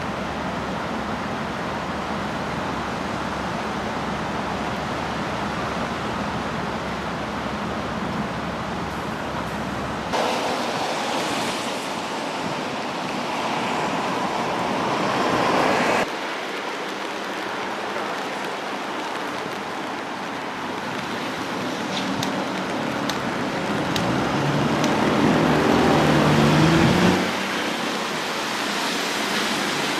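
Road traffic noise of cars driving past, heard in several spliced clips that change abruptly. Near the end a car's engine note rises as it accelerates, then cuts off.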